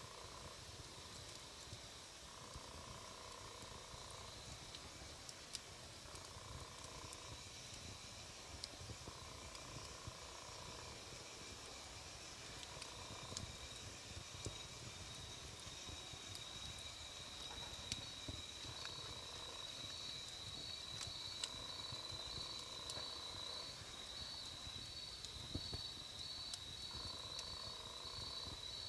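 Wood campfire burning with a low rush and scattered sharp crackles and pops. A soft sound repeats about every two seconds, and a steady high-pitched trill joins about halfway through.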